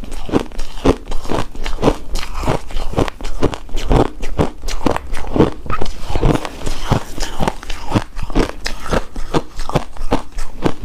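Close-miked crunching and chewing of shaved ice and snow ice in the mouth: a rapid, uneven run of icy crunches, about three to four a second.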